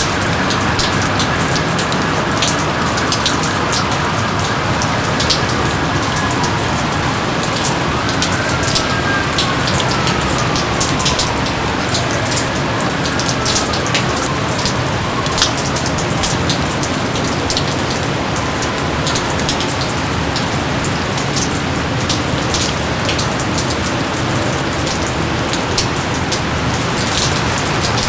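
Steady rain falling, a dense hiss full of sharp little drop ticks. A few faint falling whistle-like tones pass a quarter to half of the way in.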